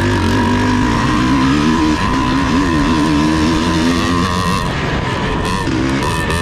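Vintage off-road racing motorcycle engine running hard, its pitch rising and falling again and again as the throttle is opened and closed.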